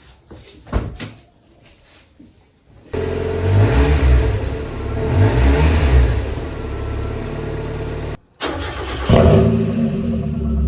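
Mazda Miata 1.6 naturally aspirated four-cylinder engine and exhaust: it starts up about three seconds in, is revved twice and settles to idle. After a brief cut to silence it is heard again louder, rough-edged and deeper, in keeping with the backbox-delete exhaust.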